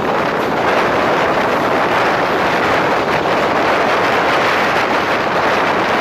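Moving express train heard from on board: a loud, steady rush of wind and running noise, with wind buffeting the microphone.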